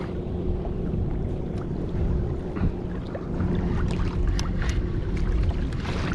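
Small water splashes and ticks against a kayak's hull, with wind on the microphone and a steady low hum underneath.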